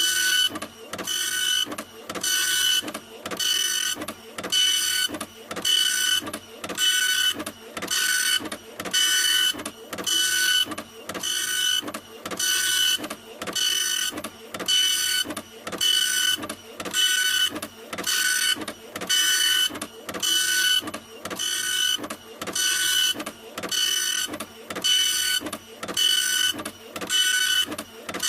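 Printer running, a whirring buzz repeating about once a second with brief gaps between passes.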